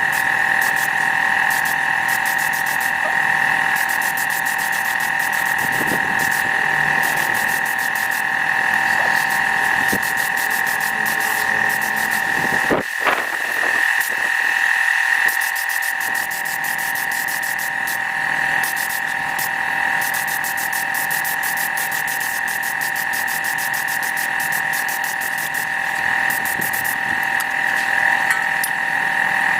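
A motor-driven shop machine running steadily with a high whine made of several fixed tones, with patches of rapid fine ticking over it and a short disturbance about 13 seconds in.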